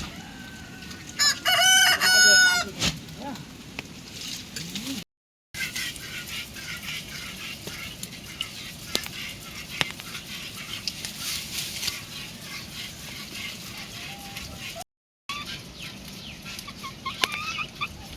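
A rooster crowing once, loud, about a second in, followed by a few short chicken clucks over a steady background hiss.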